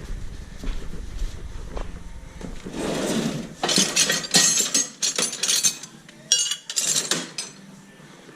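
Metal tools and parts clinking and clattering in a run of sharp knocks, busiest in the middle seconds.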